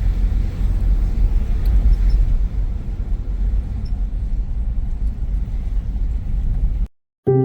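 Low, unsteady rumble of wind buffeting the microphone, which cuts off abruptly near the end.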